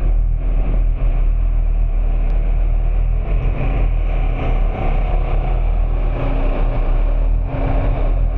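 A moving car's steady engine and road noise: a constant low rumble with no distinct events.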